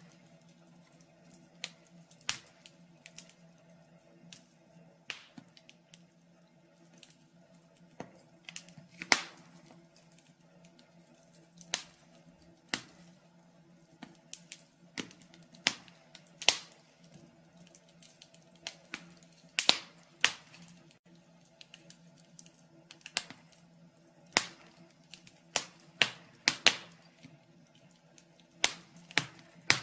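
Wood fire burning in a fireplace, crackling with sharp irregular pops, several every few seconds, over a faint steady low hum.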